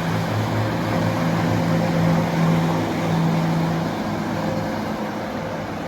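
Boat engine running with a steady low hum over a wash of wind and water noise, easing off a little near the end.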